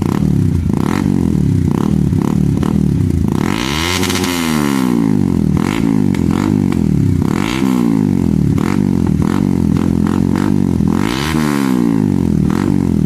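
Yamaha R15 V3's single-cylinder engine breathing through an aftermarket Akrapovic slip-on exhaust, revved while standing: three strong revs that rise and fall back to idle, with shorter blips between them. Loud, with sharp pops and crackles from the exhaust.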